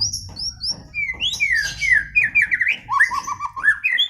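White-rumped shama singing: a fast, varied run of clear whistled notes, high slurred whistles at first, then quick descending and rising phrases with rapid repeated trill notes.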